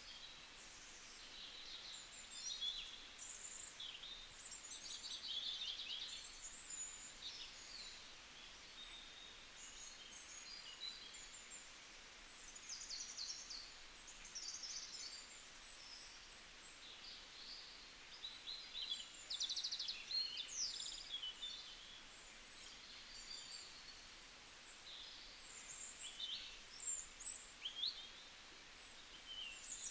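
Several songbirds chirping and trilling, many short high calls overlapping one another, over a faint steady hiss of forest ambience.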